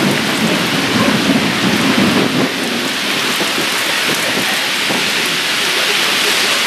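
Steady rain pouring down. A low rumble of thunder runs under it for the first couple of seconds and then dies away.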